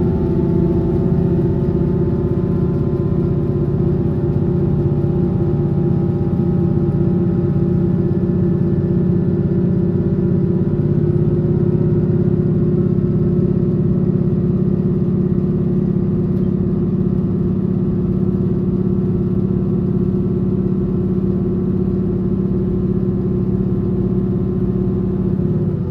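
Train running at a steady speed, heard from on board: a steady hum of several layered tones from the drive over a low rumble of the wheels on the rails.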